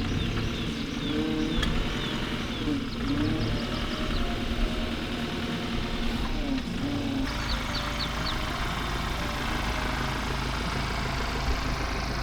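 Ford Ranger's 2.0 EcoBlue diesel engine idling steadily, its low running growing fuller about seven seconds in. Short high chirps sound above it.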